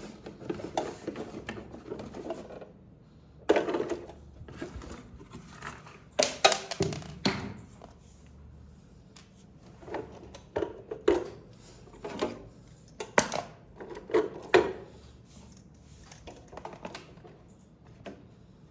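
Hands handling plastic toy parts and packaging: rustling at first, then irregular clicks, taps and knocks of hard plastic, a few of them sharp and loud.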